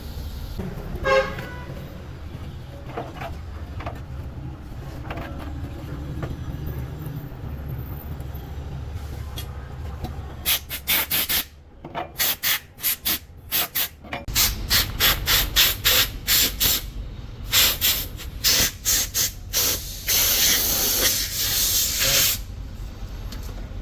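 Repeated short blasts of loud hissing, several a second, starting about halfway through, then one longer blast of about two seconds near the end, over a steady low hum.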